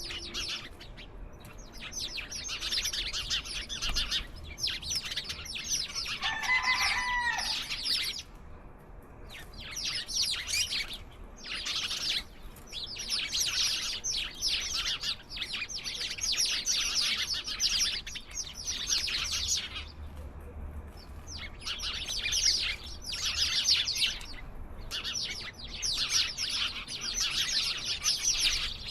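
A flock of small songbirds chirping and chattering, dense rapid high chirps coming in bursts of a few seconds with short pauses between. About a quarter of the way in, one lower, two-part call sounds briefly under the chatter.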